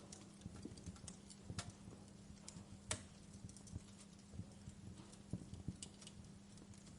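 Wood fire crackling, with irregular small pops and snaps, the sharpest about three seconds in, over a faint steady low hum.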